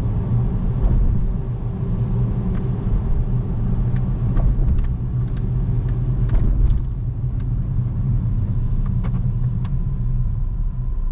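Car driving, heard from inside the cabin: a steady low road and engine rumble with scattered faint ticks.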